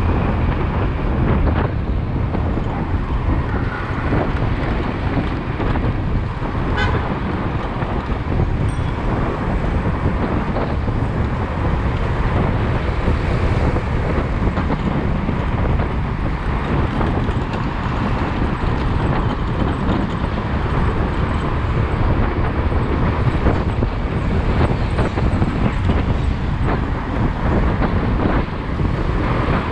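A motorcycle riding through city traffic: the engine, road and wind make a steady low rumble, with the noise of the traffic around it.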